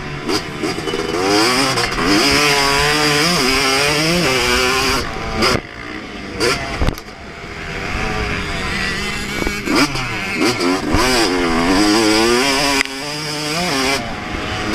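2024 Yamaha YZ250 two-stroke motocross engine at full throttle, its pitch climbing through the revs and falling back again and again. About five seconds in the throttle is closed and there are a few sharp knocks. From about eight seconds it pulls hard again, then backs off near the end.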